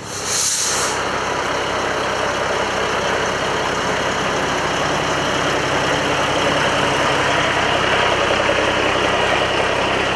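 A vehicle engine running steadily at an even speed, after a short hiss about half a second in.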